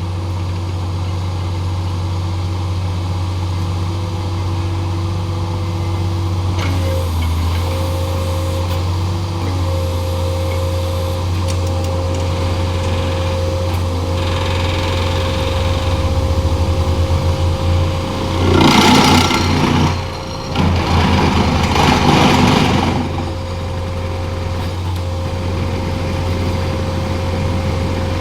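An engine running steadily with a deep hum and a held whine. About two-thirds of the way through come two loud rushes of noise, each lasting a second or two.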